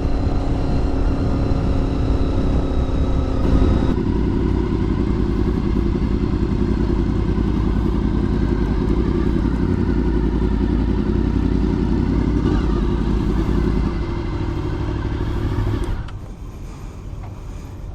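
Motorcycle engine running steadily while riding, with a shift in its note about four seconds in. It drops off in two steps near the end as the bike slows.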